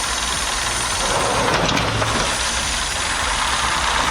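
A heavy machine's engine running steadily, growing a little louder about a second in.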